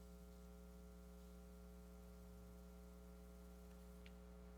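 Near silence with a steady low electrical hum on the recording, and a faint click about four seconds in.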